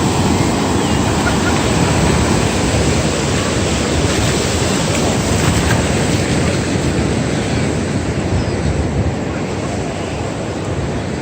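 Steady roar of wind and surf at a beach, loud on the microphone, with no distinct events.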